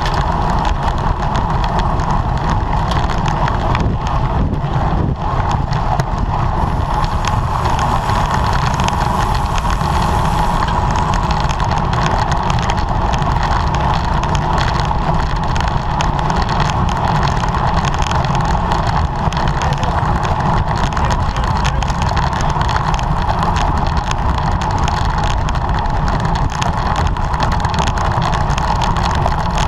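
Steady wind and road noise on a camera riding on a racing bicycle at speed.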